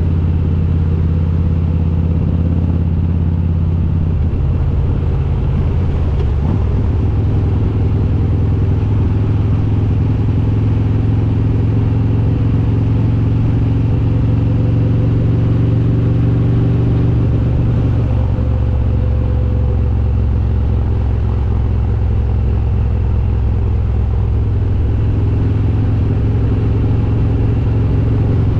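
Harley-Davidson Road King's S&S 95-inch V-twin with Super Stock heads running steadily under way at a loud, even level. The engine note shifts about five seconds in and again about eighteen seconds in.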